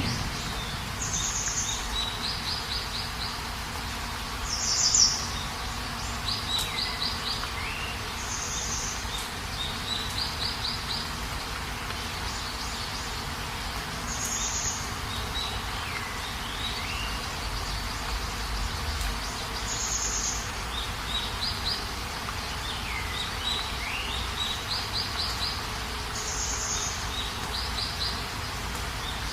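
A songbird repeating the same phrase six times, every four to six seconds: a short high burst, a quick run of rapid notes, then a call that swoops down and back up. A steady, even hiss runs underneath.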